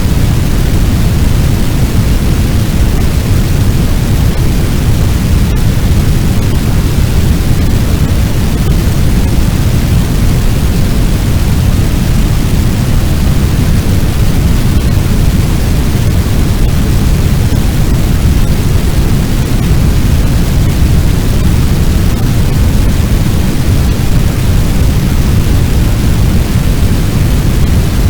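Fire sound effect: a steady, dense rumble of noise, strongest in the low end, meant to sound like a large blaze burning, without a break.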